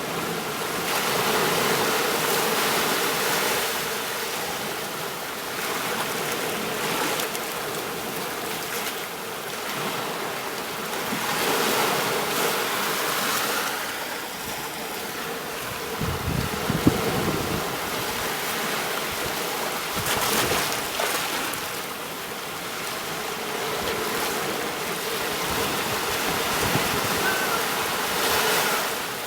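Ocean waves washing onto a beach, the surf swelling and easing every few seconds, with a brief deeper rumble about halfway through.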